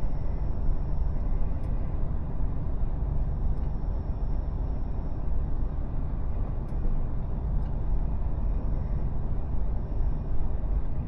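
Mercedes Actros truck on the move: a steady low rumble of its diesel engine and road noise, with a few faint ticks.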